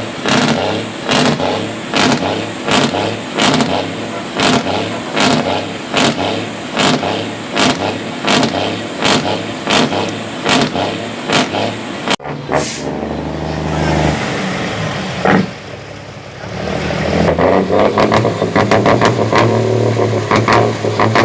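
Truck engines revving hard in quick, regular pulses, about two a second. About twelve seconds in the sound cuts off suddenly, and engine noise follows that rises again into fast pulsing revs.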